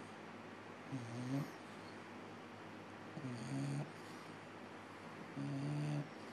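Sleeping bulldog snoring: three low snores about two seconds apart, each lasting around half a second.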